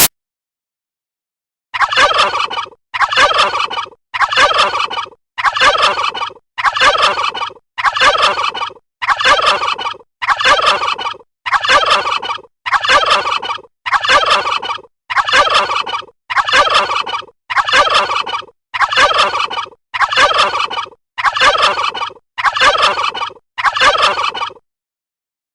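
A bird call, the same call of about a second repeated about eighteen times at an even pace with dead silence between, as if looped.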